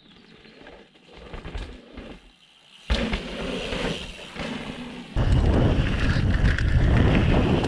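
Mountain bike riding a dirt downhill trail: tyre roll and wind buffeting on a helmet or chest camera. The noise drops away at the start, a sharp knock comes about three seconds in, and loud rolling and wind noise returns from about five seconds on.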